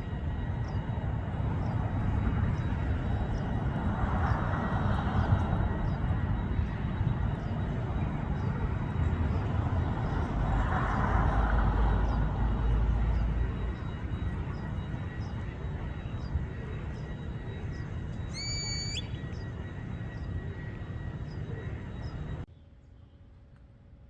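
A small bird repeating one short high chirp about once a second, over a steady low rumble. One higher, rising call comes near the end, and the rumble cuts off abruptly just before the end.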